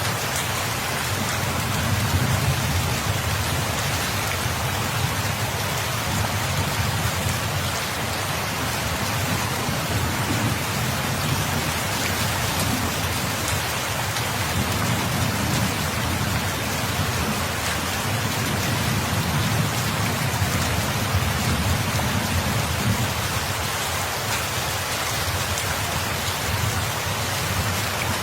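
Steady rain falling, with a low rumble of distant thunder that swells and fades several times.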